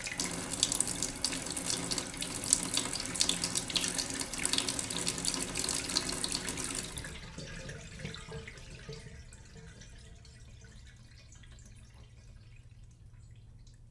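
Rain pouring and splattering, thick with fine drop patters; it fades away in the second half to a faint patter.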